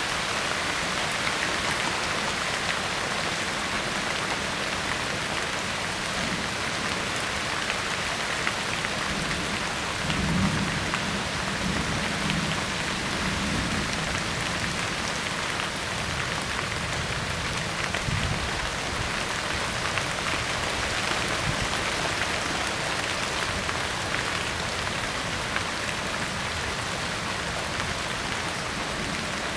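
Steady rain falling: an even hiss, with a low rumble about ten seconds in and again around eighteen seconds.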